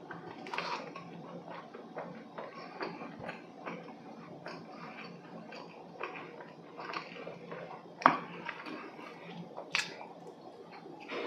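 Close-miked mouth sounds of a man chewing hodu gwaja (Korean walnut cakes), dense and dry to chew: irregular wet clicks and smacks, with a sharper, louder click about eight seconds in and another near the end as he bites into a fresh cake.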